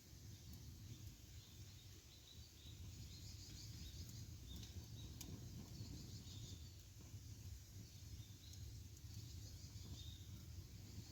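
Faint campfire burning with a low steady rush and a few sharp crackles spread through, over short high chirps repeating in the background.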